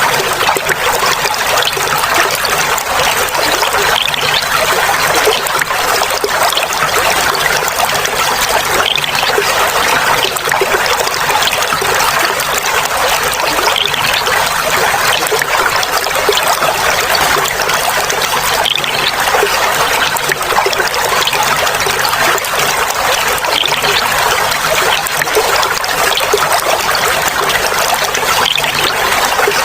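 Clear water trickling and babbling steadily, a continuous splashing rush with no breaks.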